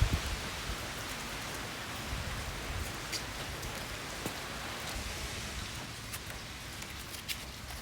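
Campfire crackling: a steady hiss with a few sharp pops scattered through.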